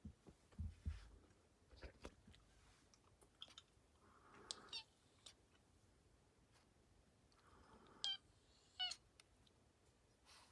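Domestic cat giving three short, high-pitched meows spread across several seconds, with a couple of soft low thumps near the start.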